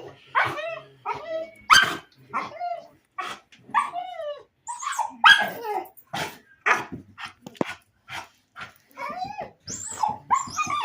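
A dog barking and yelping over and over, short high calls that fall in pitch, about two a second.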